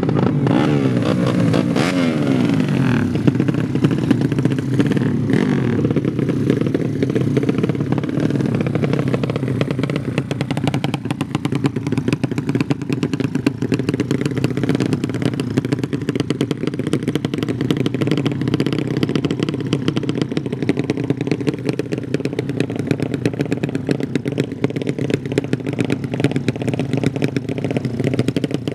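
Underbone motorcycle engines running. In the first few seconds one engine's pitch falls away, then a steady engine sound with a rapid firing rhythm carries on.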